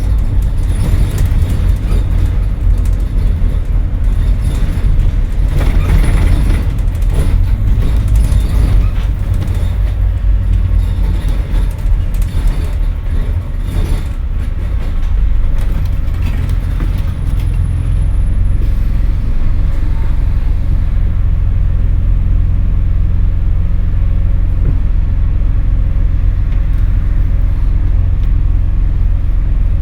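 Scania N230UD double-decker bus's diesel engine pulling hard, heard from inside the bus: a loud, deep drone with rattling and clattering from the body through the first half, settling to a smoother, steadier drone about halfway through.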